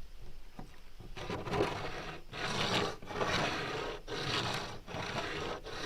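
A rock scraped back and forth across a table in about five rough, grating strokes, each about a second long, starting about a second in.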